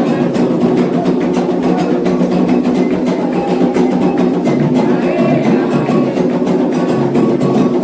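Candomblé atabaque drums playing the rum, the drummed rhythm for the orixá Ogum, in a steady fast beat with voices singing over it.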